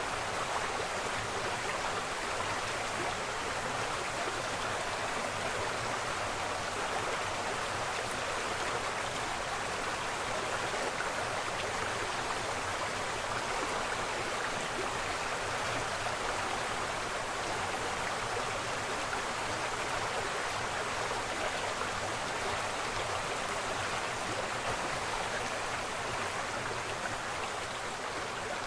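Waterfall: a steady, even rush of falling water, easing slightly near the end.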